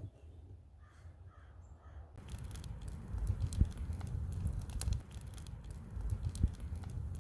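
A few faint outdoor bird calls, then about two seconds in a sudden shift to a louder low rumbling noise with scattered crackles.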